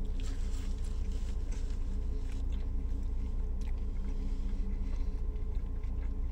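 Chewing a mouthful of toasted sub sandwich, with faint small clicks, over a steady low hum.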